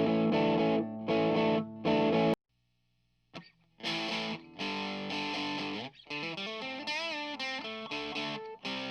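Fano Omnis JM6 electric guitar played through effects pedals: distorted chords that cut off abruptly about two seconds in, a second of silence, then a new passage of chords and single notes whose pitch wavers partway through.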